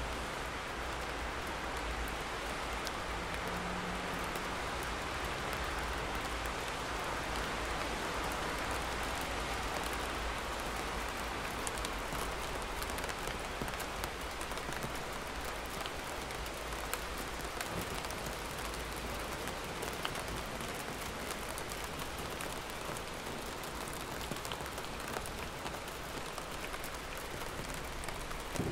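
Steady heavy rain falling, a dense hiss with many individual drops pattering. A low rumble underneath fades out over the first ten seconds or so.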